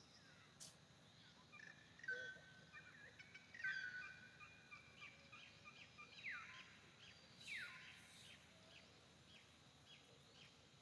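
Faint outdoor bird calls: scattered short chirps and whistled notes, with two clear downward-sliding calls in the second half.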